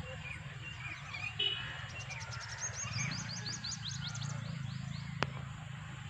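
Birds chirping and calling, with a quick run of short, rising high notes, about five a second, through the middle. A single sharp click about five seconds in, over a steady low hum.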